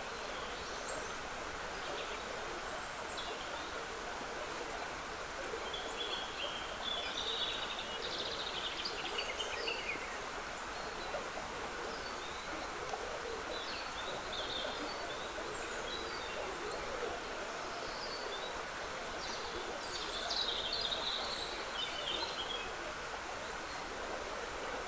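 Steady trickling of a woodland stream with songbirds singing over it in short chirping phrases, busiest twice: about six seconds in and again past twenty seconds.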